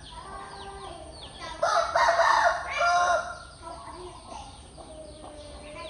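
A rooster crows once, loudly, starting about one and a half seconds in and lasting about a second and a half. Steady, repeated short high chirps of small birds run underneath.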